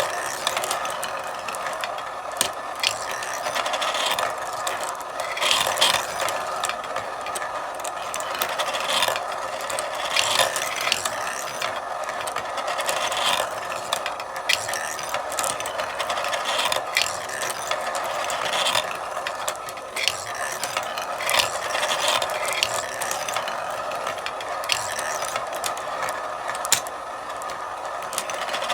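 Marbles rolling and clattering along a marble run: a continuous rattling roll with frequent, irregular sharp clicks as marbles drop and knock against the track and each other.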